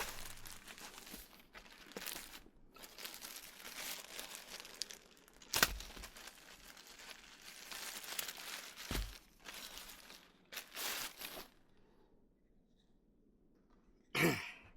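Plastic packaging crinkling and tearing as a new cabin air filter is unwrapped and handled, with a sharp click about halfway through and a dull thump a few seconds later.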